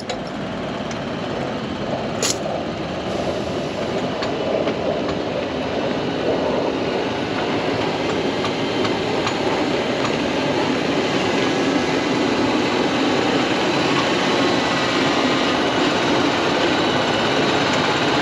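Tractor on the move: steady engine and running-gear noise, slowly growing louder over the first several seconds.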